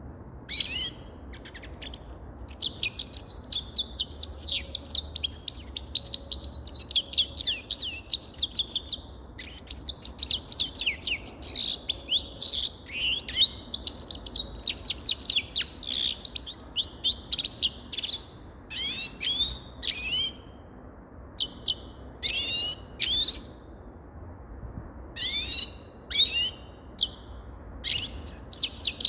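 Grey-headed goldfinch singing: long runs of fast, twittering song, breaking up after about eighteen seconds into shorter phrases with pauses between them.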